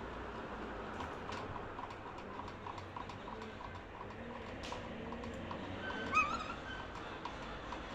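A bird's short warbling call about six seconds in, typical of a common myna. Under it run a run of faint regular ticks, about three to four a second, and a steady background hiss.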